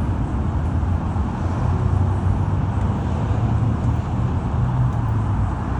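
A vehicle engine running steadily: a low rumble with an even hum, no change in pitch.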